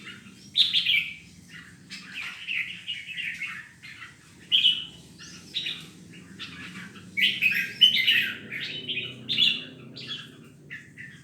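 Caged red-whiskered bulbuls singing in quick, repeated chirping phrases, the competitive song keepers call 'ché', over a faint low hum.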